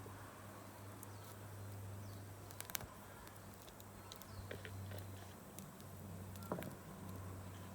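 Wood campfire crackling softly, with scattered small pops and two sharper cracks, one about a third of the way in and one near the end, over a low steady hum.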